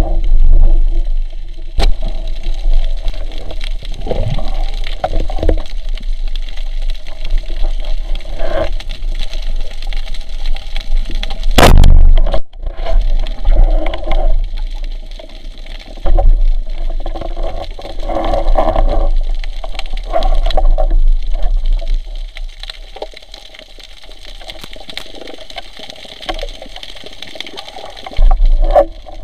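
Water sloshing and bubbling around a camera in the water during a spearfishing dive, with a deep rumble of water movement. About twelve seconds in there is one sharp crack.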